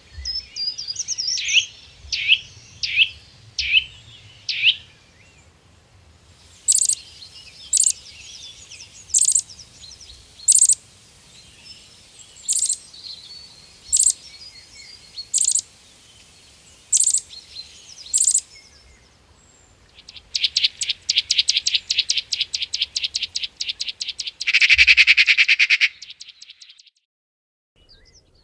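Wild birds calling in three separate bursts. First comes a handful of short falling whistled notes. Then a sharp high call is repeated about every second and a half for some twelve seconds. Near the end comes a fast rattling trill lasting several seconds.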